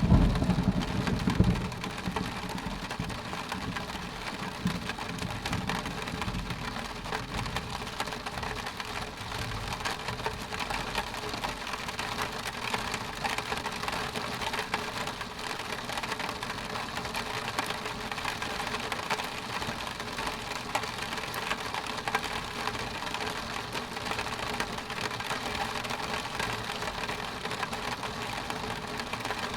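Rain falling steadily on a window pane, with a low roll of thunder at the start that fades away over the first few seconds.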